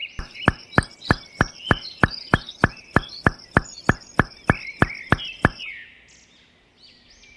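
A steady run of sharp, evenly spaced taps, about three a second, stopping about five and a half seconds in, with birds chirping behind.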